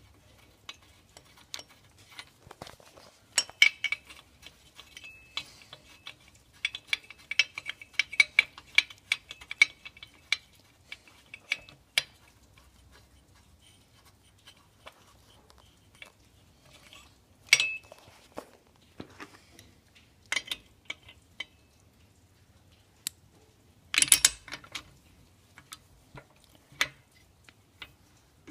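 Metal clinking and clicking from hand work with metal tools or parts, in irregular runs of sharp ticks and rings, with a loud clank about 24 seconds in. No engine is running.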